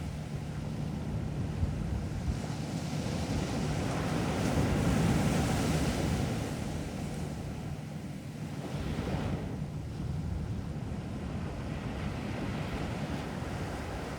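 Sea waves breaking and washing up a beach, swelling loudest a third of the way in and surging again a little later, with wind rumbling on the microphone.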